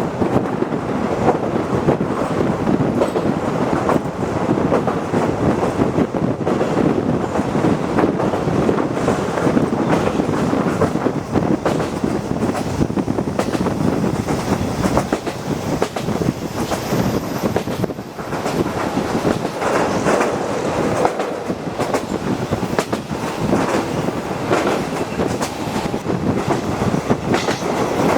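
Locomotive-hauled passenger coach running along the track, heard from inside the coach: a steady rumble of wheels on rail with the clickety-clack of the wheels crossing rail joints.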